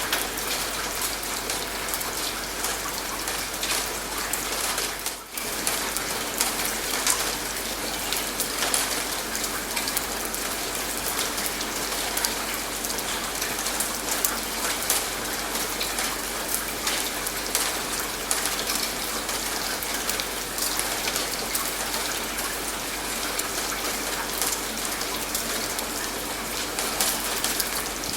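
Steady rain, an even hiss scattered with many small drop clicks, dipping briefly about five seconds in.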